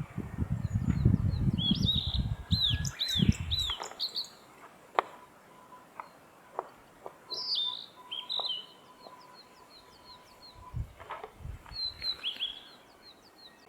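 Blue-and-white flycatcher singing: three short phrases of clear, high whistled notes that arch up and down, one in the first few seconds, one about halfway and one near the end. A low rumble runs under the first few seconds and stops about four seconds in.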